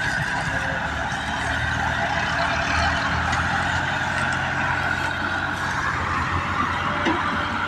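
Massey Ferguson 385 tractor engine running steadily with a low, even drone.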